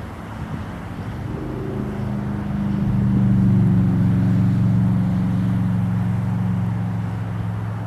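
A motor vehicle's engine hum swells, holds and slowly fades as it passes, over steady wind and river noise.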